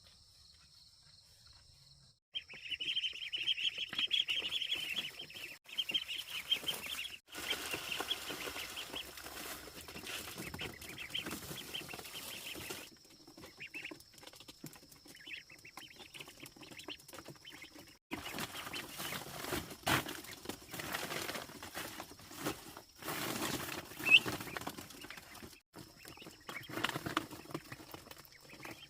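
Outdoor animal calls, bird-like, with a dense high chirring for a few seconds early on; the sound breaks off and changes abruptly several times.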